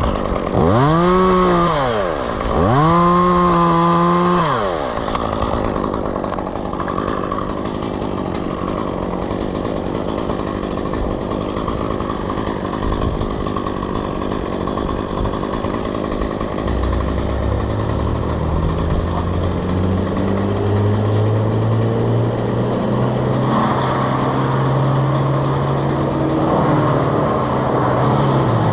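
Two-stroke chainsaw revved up twice in quick succession, its pitch rising and falling each time, then a steady rushing noise. About two-thirds in, a lower-pitched engine running comes in and slowly rises in pitch.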